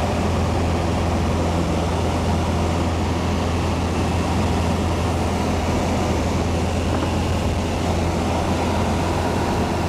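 Piper Cherokee's piston engine and propeller running steadily under power, heard from inside the cabin as a constant low drone with a hum of evenly spaced overtones.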